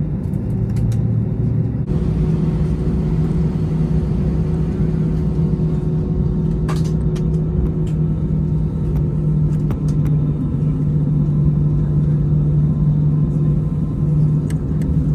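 Airliner cabin noise: the engines running with a loud, steady low drone, its tone stepping up in pitch about two seconds in.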